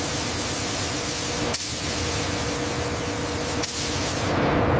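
Spray gun hissing steadily as a coat of paint or primer goes on, with a faint steady hum underneath. The spray breaks off with a click twice, about a second and a half in and again about two seconds later.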